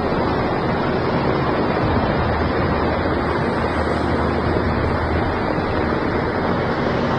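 Loud, steady rushing noise of a storm, wind or surging water buffeting the microphone.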